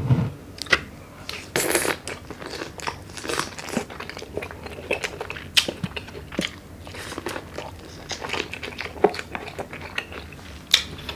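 A man chewing and biting mouthfuls of mixed seafood in Cajun sauce close to the microphone, with irregular sharp clicks throughout.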